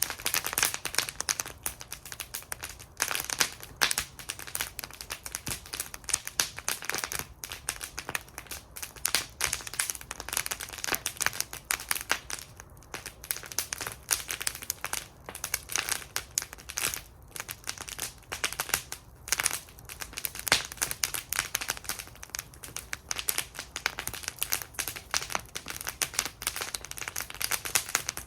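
Wood fire burning in a metal fire bowl, crackling and popping continuously with dense, irregular snaps.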